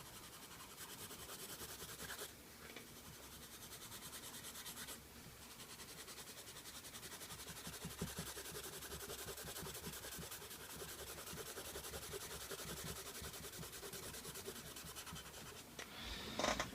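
Orange colored pencil held flat and shaded rapidly back and forth on paper: a faint, steady scratchy rubbing made of many quick strokes, with brief pauses about two and five seconds in.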